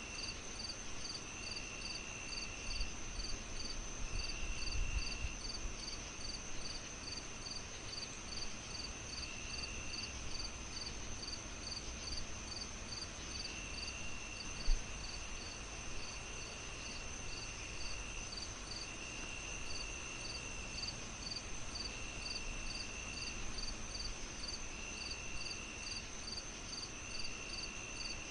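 Crickets chirping in a steady pulse of about two chirps a second, over a continuous high insect trill and a lower buzzing that comes and goes every few seconds, all on an even hiss. One sharp pop about halfway through.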